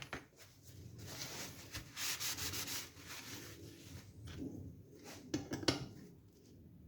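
Hand work on a motorcycle gearbox: a rubbing, scraping noise of metal parts and tools for about two seconds, then a few sharp clicks of metal near the end.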